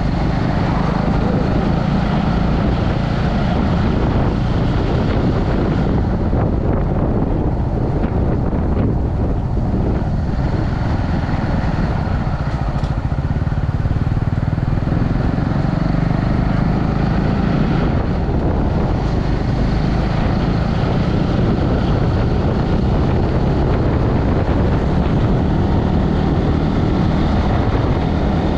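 Motorbike engine running steadily while riding, a continuous loud roar mixed with rushing wind.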